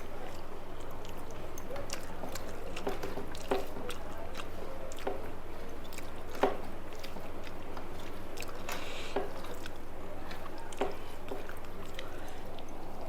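Close-miked chewing of a rice meal: wet mouth sounds with scattered sharp clicks, the loudest about six and a half seconds in, over a steady low hum.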